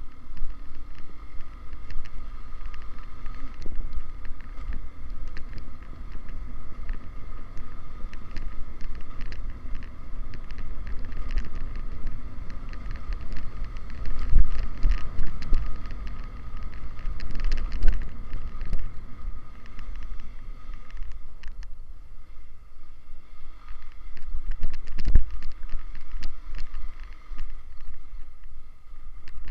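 Motorcycle running while being ridden, with wind buffeting the microphone and a few louder thumps.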